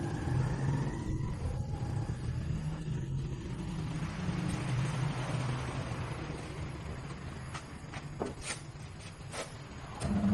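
A motor vehicle's engine running with a steady low rumble, with a few sharp knocks and clicks in the second half.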